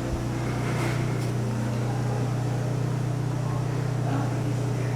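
Hunter ceiling fan running, its motor giving a steady low hum.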